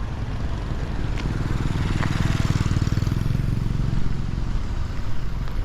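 Motor vehicle engine running close by in street traffic, its rapid low pulse swelling toward the middle and easing off near the end, as it passes.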